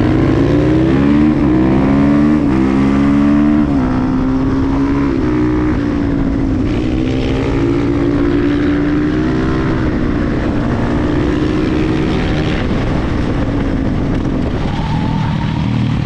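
KTM 350 EXC-F supermoto's single-cylinder four-stroke engine under hard acceleration. It climbs in pitch and drops back at three quick upshifts in the first four seconds, then runs at a fairly steady high pitch with small changes in throttle.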